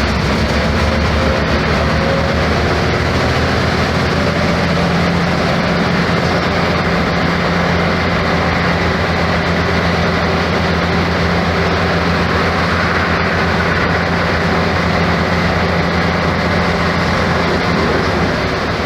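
Mercedes-Benz O-500MA articulated bus with a Bluetec 5 diesel engine running under way: a steady engine drone under even road and body noise.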